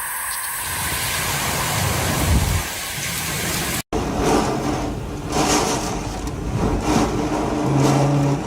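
A steady hiss, then after an abrupt cut a vehicle engine running with a steady low hum and irregular surges of noise.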